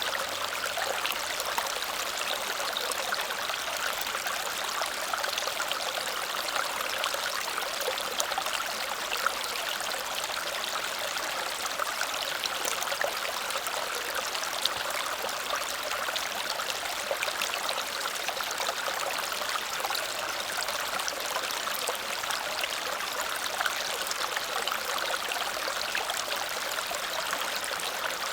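Small waterfall splashing and cascading steadily over rocks, a constant rushing and trickling of water with fine splashes.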